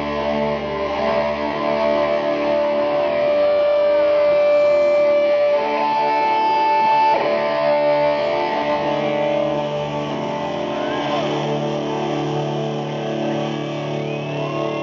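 Live hard rock band playing, with electric guitar to the fore holding long sustained notes and bending some of them.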